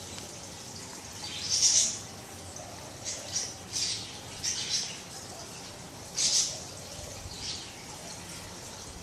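Pet budgies chirping and squawking: about six short, harsh calls, the loudest near the start and about two thirds through.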